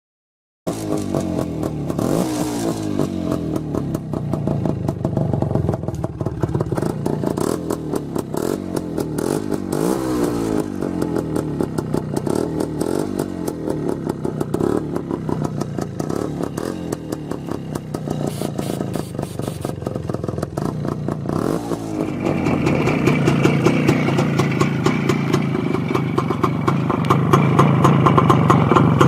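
Motorcycle engine running and being blipped, with several rising revs in the first twenty seconds. About 22 seconds in, the sound shifts to a louder, steadier run with a harder edge.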